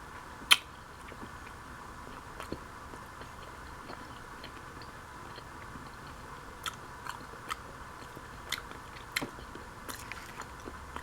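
A person chewing a sandwich close to the microphone: scattered short, sharp mouth clicks, the sharpest about half a second in, over a steady faint hiss with a thin steady tone.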